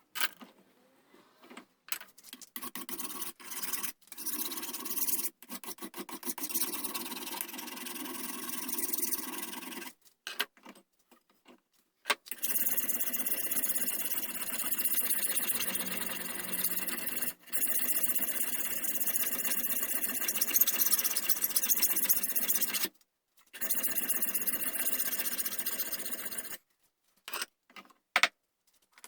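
Wood of a gunstock being shaped with a tool, a steady scraping and rubbing in long stretches. It is broken by several abrupt gaps and some rows of short, even strokes in the first ten seconds.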